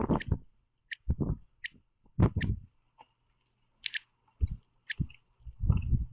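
Male northern cardinal at a feeder giving several short, quiet chip notes, between bursts of low rustling and thumping as it flaps its wings and moves on the feeder tray.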